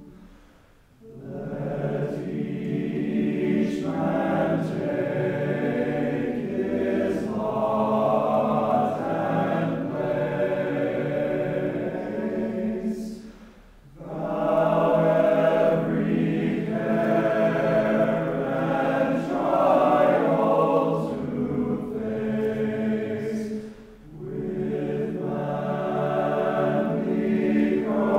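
A group of voices singing a hymn together as a choir, in long phrases broken by short pauses about a second in, halfway through and near the end.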